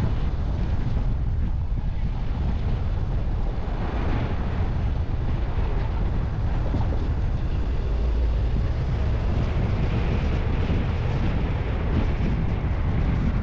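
Wind buffeting the microphone: a steady low rumble with a thin hiss above it.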